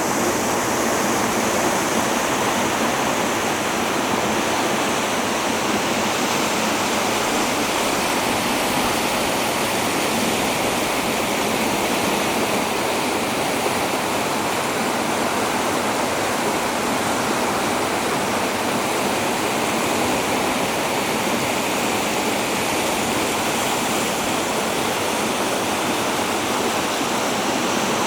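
A river in flood, flowing very high after heavy rain: a steady, loud rush of fast water.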